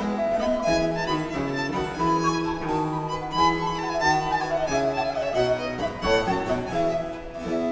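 Baroque chamber ensemble playing a sonata live: baroque violin carrying the melody over a moving bass line from baroque cello and harpsichord.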